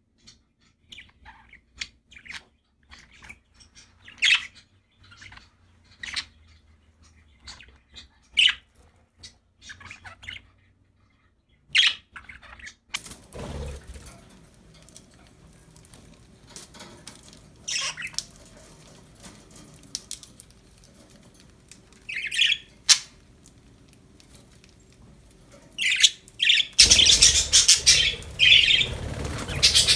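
Pet budgerigars chirping and squawking in short, scattered calls, building to a loud burst of busy chirping in the last few seconds.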